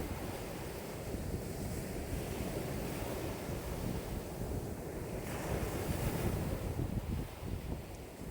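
High waves on a lake, stirred up by a strong wind of about 5 m/s, with the wind buffeting the microphone. A steady low rumble of water and wind, with the higher hiss swelling about five seconds in.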